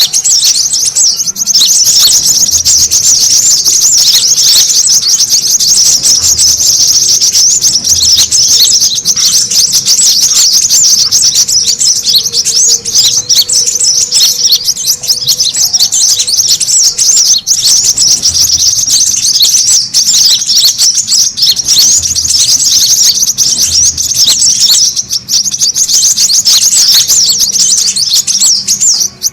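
Brown-throated sunbirds (kolibri kelapa) chattering busily: a loud, dense, unbroken stream of rapid high twittering. It is the noisy 'ribut' call used as a lure to draw other birds in.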